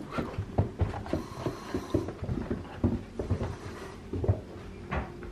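Labrador puppy's paws pattering on stairs, a run of quick, irregular soft thumps.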